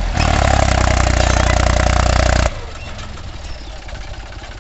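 Diesel tractor engine running loud and steady, then dropping suddenly about two and a half seconds in to a quieter idle with an even chug.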